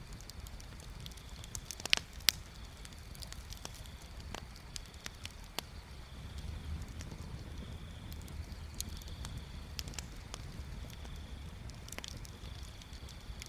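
Wood bonfire crackling, with irregular snaps and pops. Two sharp pops come about two seconds in, over a steady low rumble.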